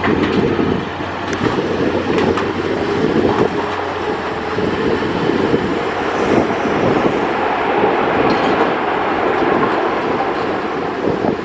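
Airbus A330-200F's Rolls-Royce Trent 700 turbofans, a loud, steady jet rush close by.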